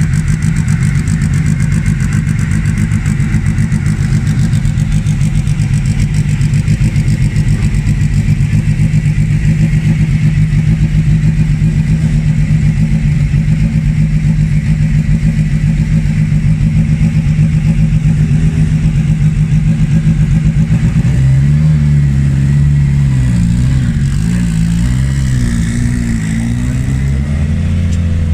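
Lancia Delta S4 race car's engine idling steadily, then, about 21 seconds in, revving lightly up and down in small blips.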